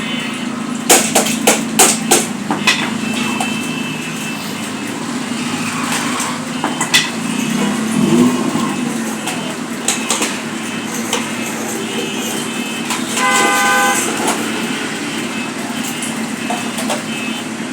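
A quick run of about five sharp hammer blows on metal about a second in, with a few more knocks later, over steady street noise. A vehicle horn sounds for about a second later on.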